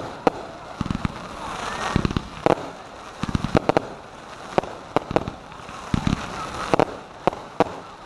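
Consumer fireworks going off: an irregular run of sharp bangs and cracks, several a second, over a crackling hiss.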